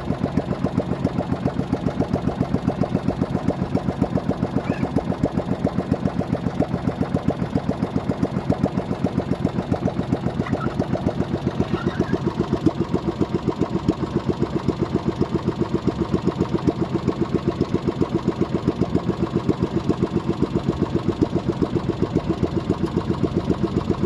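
A small boat's engine running steadily with an even, rapid pulsing beat.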